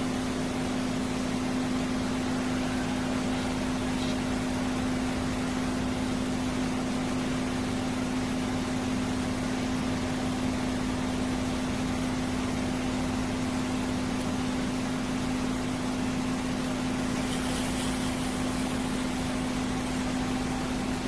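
Cuisinart grind-and-brew coffee maker running with a steady low hum and hiss, with a brief brighter hiss near the end.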